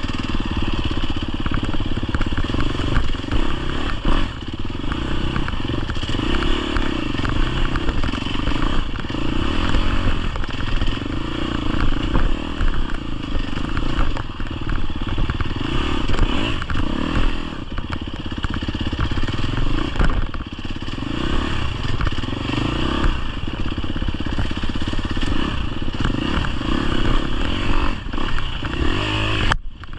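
GasGas EX250F's 250cc four-stroke single-cylinder dirt-bike engine running under load, its pitch rising and falling over and over as the throttle is opened and closed, with a constant low rumble and clatter underneath. The sound drops out briefly near the end.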